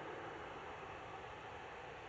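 Distant jet airliner engine noise: a steady rushing sound that slowly fades.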